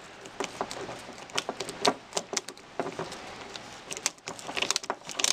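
Irregular light clicks and rattles of small metal screws, a screwdriver and plastic RC-truck suspension parts being handled while a shoulder screw is set into the shock tower.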